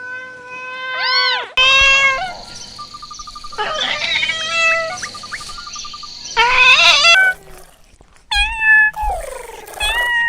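Kittens meowing, a series of pitched calls that overlap in places; the last few fall in pitch.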